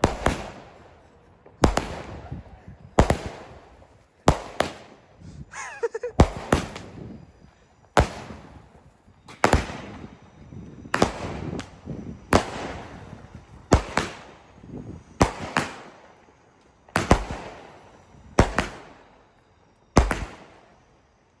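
Multi-shot consumer fireworks cake firing shot after shot, a sharp bang about every second and a half, each bang trailing off in a short echo.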